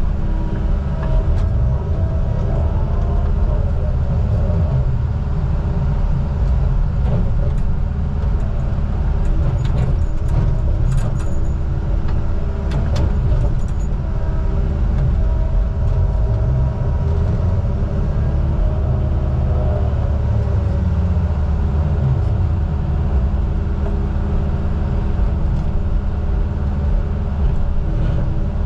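A vehicle engine running steadily: a loud low rumble with a few steady tones in it, and a brief spell of light rattling about a third of the way in.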